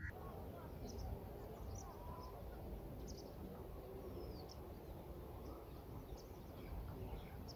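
Faint outdoor field ambience: small birds give short, high chirps now and then over a low, steady background rumble.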